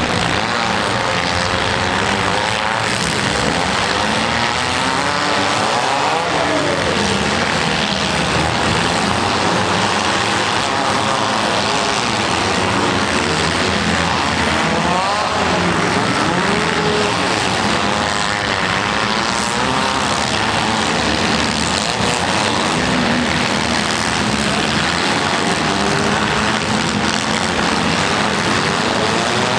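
Several small demolition-derby cars' engines revving at once, their overlapping pitches rising and falling continuously over a constant din.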